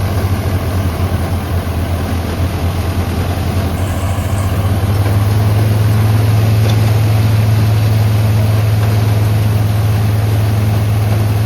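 New Holland 3630 tractor's diesel engine running with a steady low drone. It evens out and gets a little louder about five seconds in.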